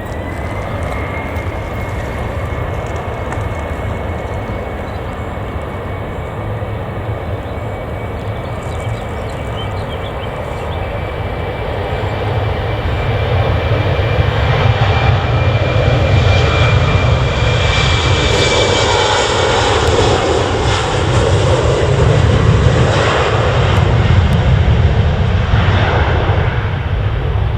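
Jet airliner engines: a steady high whine after spooling up, then the noise grows much louder as the aircraft passes close by, with a drop in pitch about two-thirds of the way through.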